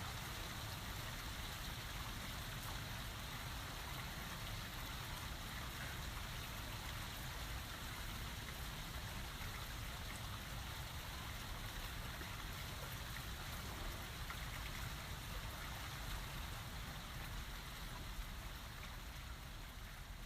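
Steady rain falling, an even hiss of drops with a constant low rumble beneath it. One sharp click stands out near the end.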